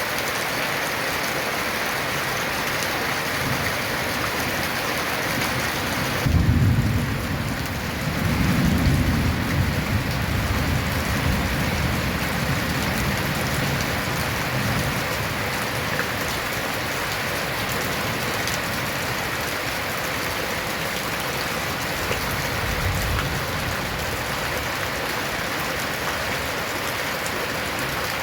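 Steady heavy rain drumming on a corrugated tin roof. About six seconds in a loud roll of thunder breaks in and rumbles away over several seconds, and a fainter rumble comes later.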